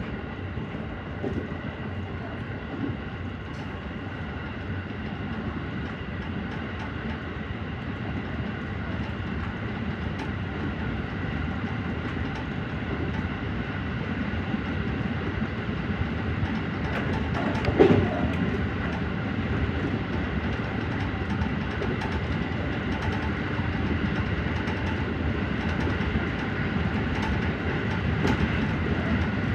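313 series electric train running along the line, heard from inside the front car: a steady rumble of wheels on rail with several steady whining tones that slowly grow louder. One sharp knock about 18 seconds in.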